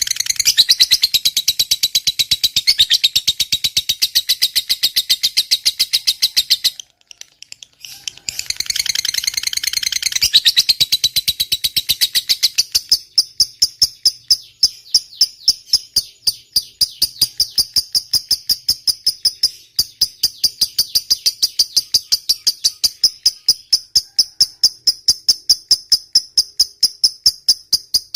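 Lovebird ngekek panjang: a long, fast chattering trill of sharp repeated notes, breaking off briefly about seven seconds in, then running on as a steadier, narrower trill.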